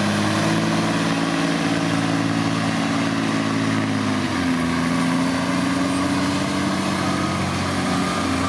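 Diesel engine of a pulling vehicle running steadily at low speed, its pitch dipping and shifting about four seconds in before it settles again.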